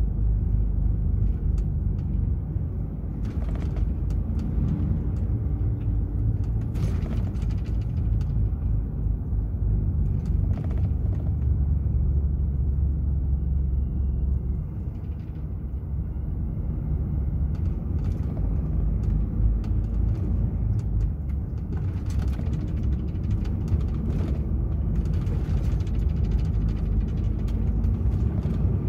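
DAF XF 480 truck's PACCAR MX-13 six-cylinder diesel running under way with road noise, heard as a steady low rumble. The engine note deepens and strengthens for a few seconds around the middle.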